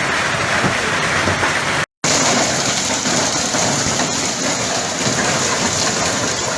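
Hailstorm with heavy rain: a dense, steady hiss of hailstones and rain hitting surfaces. It drops out for an instant about two seconds in, then carries on.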